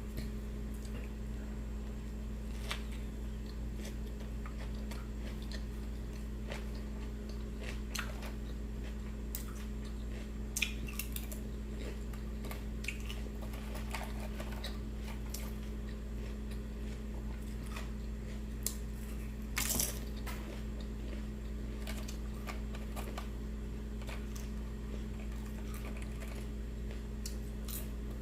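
Mouth sounds of someone eating a sandwich close to the microphone: scattered bites, chewing and lip smacks, with a short cluster about ten seconds in and another near twenty seconds. A steady low hum runs underneath.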